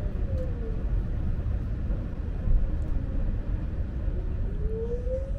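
Inside a Lastochka (Siemens Desiro) electric train: the steady low rumble of the running gear on the track, with a faint electric-motor whine that falls in pitch in the first second and rises again near the end.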